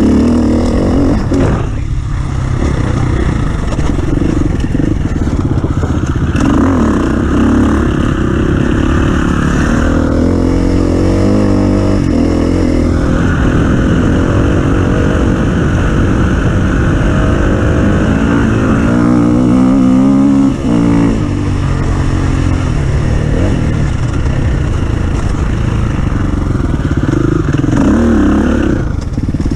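Off-road racing engine running hard, its pitch rising and falling repeatedly as it revs and shifts, with a brief drop in revs about two-thirds of the way through.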